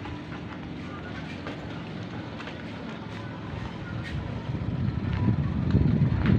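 Speedboat's twin 115 hp engines running with a steady low drone, getting louder over the last two seconds.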